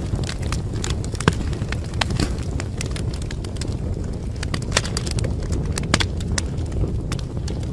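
Wood fire burning in a fireplace: a steady low rumble of flames with frequent sharp crackles and pops, a few of them louder snaps.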